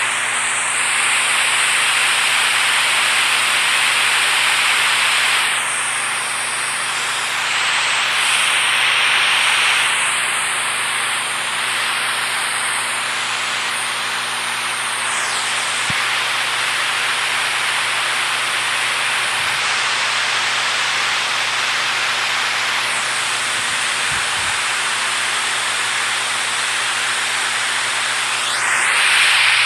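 Rushing water, a steady full hiss that swells slightly in the first few seconds and again about a third of the way through.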